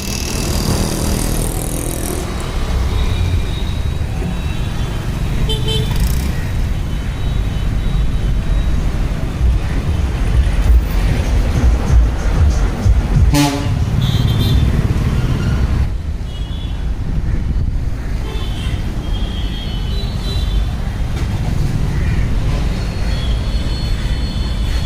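Steady low rumble of street traffic, with several short high-pitched horn toots and one sharp knock about halfway through.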